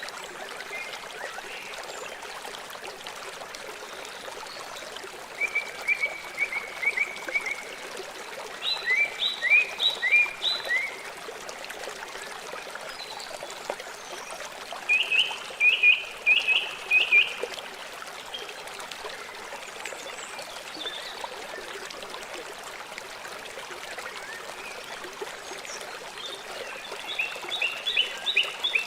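River water flowing steadily. Short bursts of rapid chirping notes sound over it four times.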